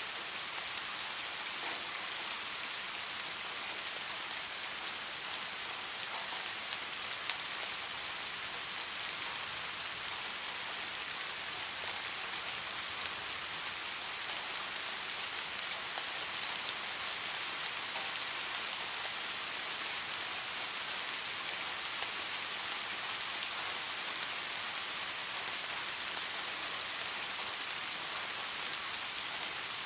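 Steady rain falling, a constant even hiss with scattered individual drop patters.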